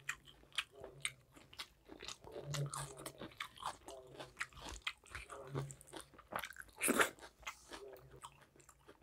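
Close-miked eating sounds: a person chewing and biting mouthfuls of rice and meat curry, with irregular wet smacks and crunchy clicks and one louder smack about seven seconds in.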